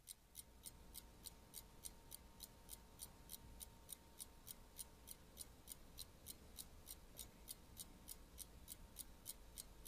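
Quiet, steady clock ticking, about three ticks a second, over a faint hum.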